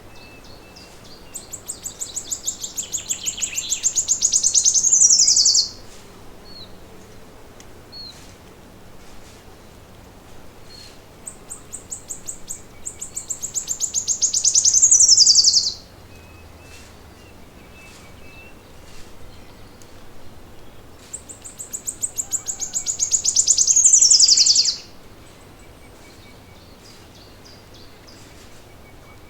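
A songbird singing the same song three times, about ten seconds apart. Each song is a rapid high trill that speeds up and grows louder over about four seconds, then ends in a quick downward sweep. Faint short chirps sound between the songs.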